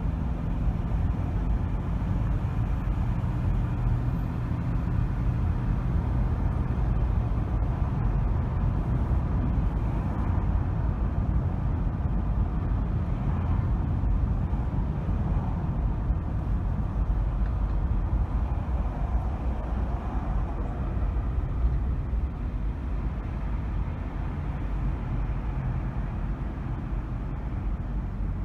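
A car driving: a steady low rumble of engine and tyres on the road, with a faint engine hum in the first few seconds.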